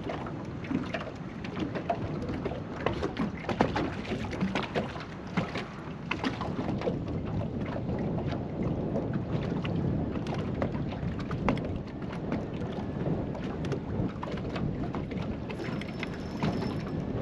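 Wind-driven chop slapping and lapping against a small fishing boat's hull. It makes a steady rushing wash broken by many irregular little splashes and knocks.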